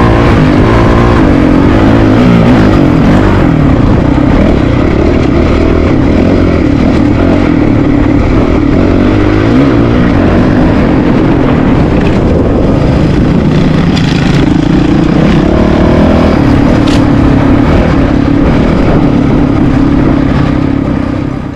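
Single-cylinder dual-sport dirt bike engine running under way off-road, its pitch rising and falling as the throttle opens and closes; it fades out near the end.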